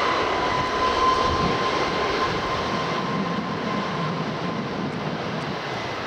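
Jet airliner engines: a broad rush with a high steady whine on top, the whine fading out about four seconds in while the rush slowly drops.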